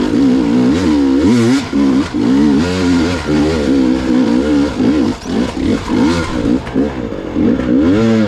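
Gas Gas EX 300 two-stroke dirt bike engine revving up and down in quick throttle bursts, its pitch rising and falling every second or so, with knocks and clatter from the bike working over rock.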